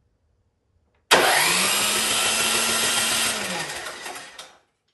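Cub Cadet snowblower's electric starter cranking the engine with the spark plug removed, to clear a flooded cylinder of gasoline. It spins up suddenly about a second in, runs steadily, then winds down and stops near the end.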